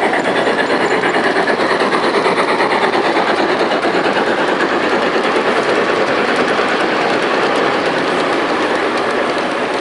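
Model train running along a layout's track, a steady dense clatter of wheels and rail joints.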